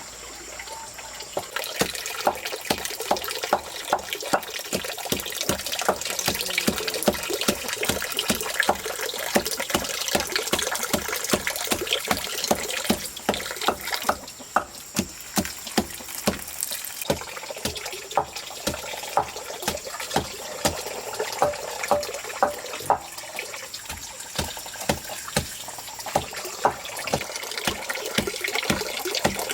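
Running water with many short splashes or knocks, about one or two a second, easing off briefly about halfway through.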